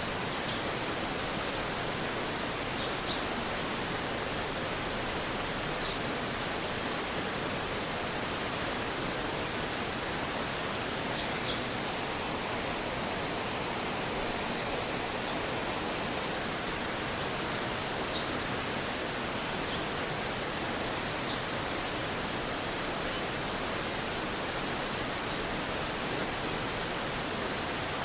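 Stream water flowing with a steady rushing hiss, with brief faint high-pitched notes every few seconds.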